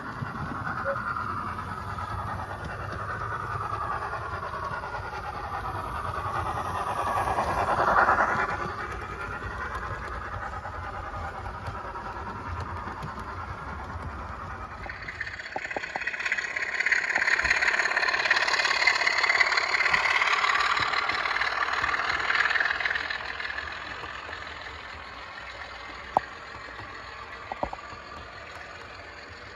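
Model trains running on a model railway layout, with a steady mechanical whir. One swells past about eight seconds in, and a louder, higher-pitched run follows from about fifteen to twenty-three seconds in. Two sharp clicks near the end.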